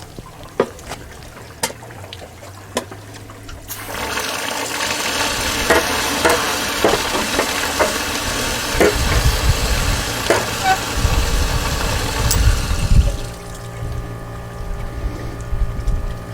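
Water heater tank being flushed: about four seconds in, compressed air from an air hose in the tank is turned on and water surges and gurgles out of the drain, stirring up loose scale, for about nine seconds before dropping back. A few light clicks come before it.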